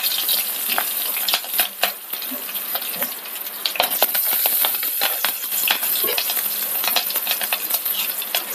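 Green chillies sizzling in hot coconut oil in a clay pot while a wooden spatula stirs them, with frequent sharp clicks over a steady hiss.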